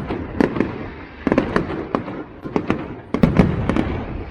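Fireworks display: a rapid, irregular run of sharp bangs, one or two a second, over a continuous rumble of further explosions.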